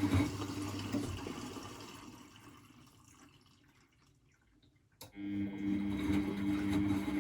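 Miele Novotronic W921 washing machine running, a motor hum with water swishing and rushing, fading away to silence over the first few seconds. About five seconds in there is a click, and the hum starts again.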